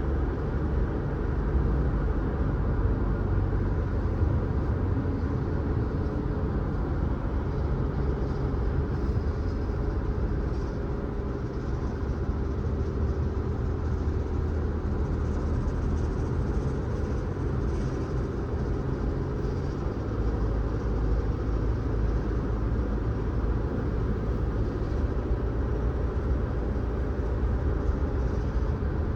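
Steady rumble of a car driving along a road: low engine and tyre noise with no sharp events.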